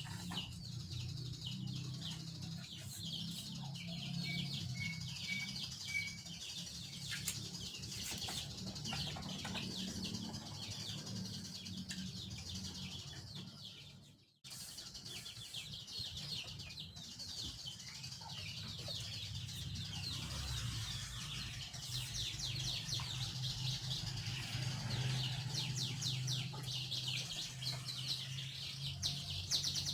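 Birds chirping in quick, dense runs, with chickens among them, over a steady low hum. The sound cuts out briefly about halfway through.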